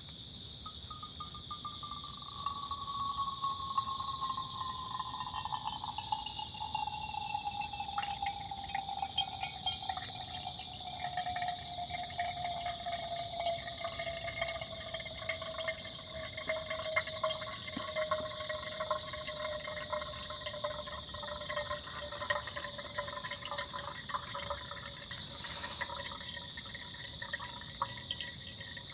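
Water being poured in a long steady stream, with a ringing tone that slides slowly and steadily down in pitch as the pour goes on. Crickets chirp steadily throughout.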